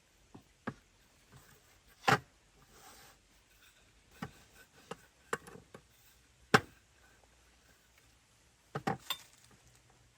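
Cooking utensils and dishes being handled: a string of separate sharp knocks and clinks, the loudest about two seconds in, around six and a half seconds in, and a quick cluster near the end.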